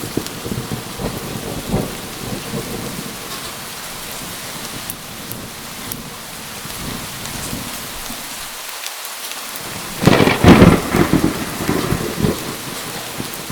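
Steady heavy rain with thunder crackling and rumbling. About ten seconds in comes a sudden loud thunderclap, the loudest sound, which rumbles away over the next few seconds.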